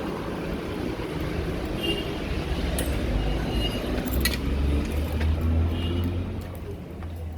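Street traffic with a motor vehicle passing close by: its low engine rumble builds about halfway through and eases off near the end, with a few small clicks over the hum of the road.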